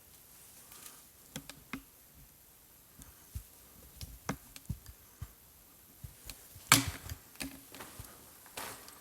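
Irregular light clicks and knocks in a quiet room, with one sharper knock about two-thirds of the way through.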